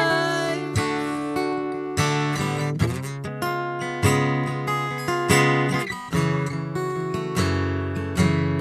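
Acoustic guitar strumming chords, about one stroke a second, in an instrumental gap between sung lines of a worship song.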